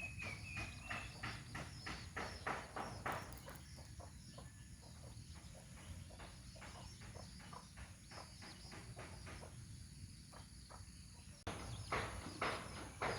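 Birds calling in rapid, repeated short chirps over a steady high-pitched insect drone, with the calls growing louder near the end.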